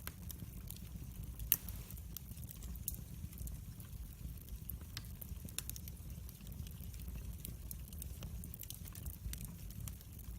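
Wood fire in a fireplace crackling, with scattered sharp pops over a steady low rumble. One pop about one and a half seconds in is the loudest.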